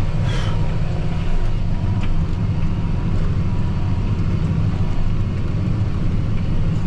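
John Deere 8230 tractor's six-cylinder diesel engine running steadily under load while pulling a disc harrow, heard from inside the cab as a low, even drone.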